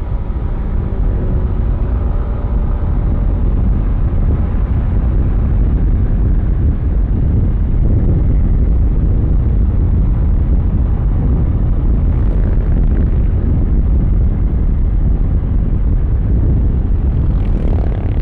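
Yamaha Aerox V3's 155 cc single-cylinder scooter engine running at a steady cruise, heard under heavy wind rush and road rumble on the helmet or body mic.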